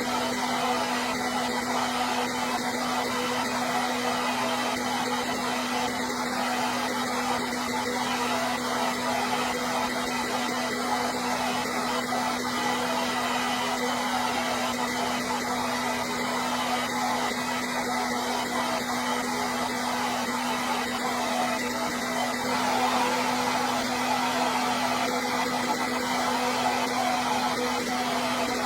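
Hair dryer running steadily: an even rush of blowing air with a steady low motor hum underneath, unchanging throughout.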